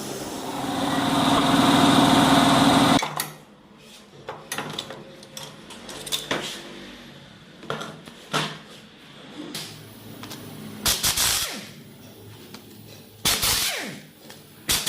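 A power tool runs with a steady mechanical whir, building louder, then cuts off sharply about three seconds in. After it come scattered clinks and knocks of metal engine parts and hand tools being handled.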